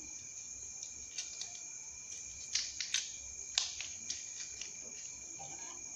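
Crickets trilling steadily in the background, with a few sharp crackles and taps of paper being folded and handled around the middle.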